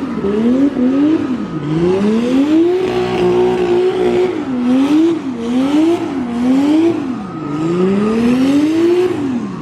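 Drift car engine revving hard up and down again and again. The revs are held high for a second or so near the middle, then bounce quickly several times, then climb once more and drop off near the end.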